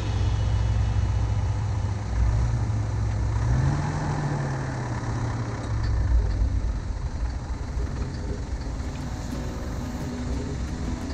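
Four-wheel-drive's engine running as it drives slowly along a dirt track, the engine note rising briefly about four seconds in and then settling.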